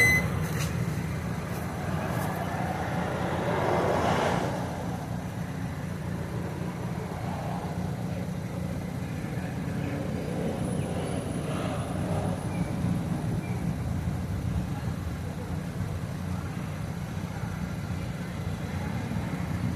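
Steady low rumble of a mini bike being ridden, swelling briefly about four seconds in.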